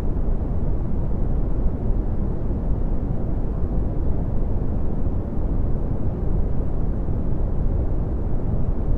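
Red (Brownian) noise: a steady, deep rumbling hiss, strongest in the bass and dying away in the treble, with no change throughout.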